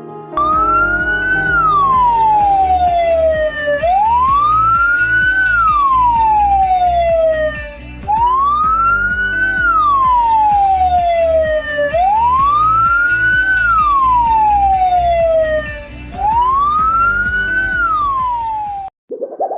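Ambulance siren sounding a slow wail: each cycle rises quickly and then slides slowly down, about one cycle every four seconds, five times in a row, then cuts off near the end.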